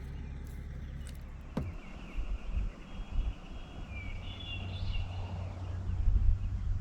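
Birds calling faintly over a low, uneven outdoor rumble, with a sharp click about one and a half seconds in and low bumps toward the end.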